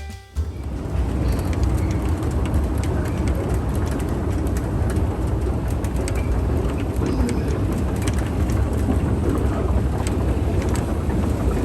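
Busy Underground station ambience: a steady low rumble with crowd noise and many overlapping footsteps, starting abruptly about half a second in.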